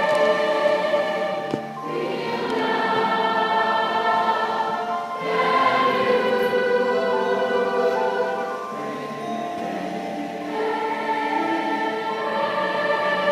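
A young choir singing long held chords in several parts, the harmony shifting every few seconds.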